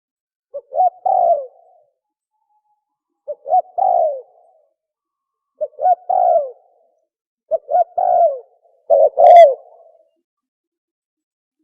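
Spotted dove cooing: five short phrases of a few quick notes each, one about every two seconds.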